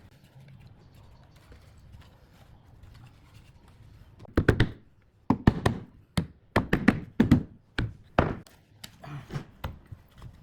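A run of hard knocks on wood, about eight irregular blows starting about four seconds in, with fainter knocks near the end.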